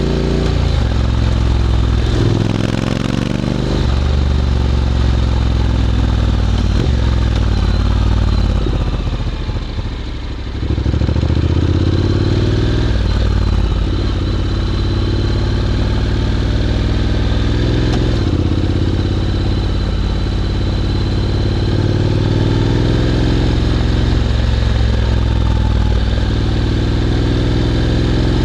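Honda X-ADV 750's parallel-twin engine through an SC-Project titanium slip-on exhaust, under way: the engine note climbs in pitch and drops back several times as it pulls through the gears, with a brief easing off the throttle about ten seconds in.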